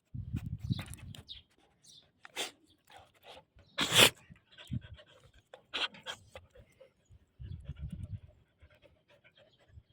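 Wolfdog panting and licking close by, with wet clicks and breathy spells near the start and again past the middle. One loud, short burst comes about four seconds in.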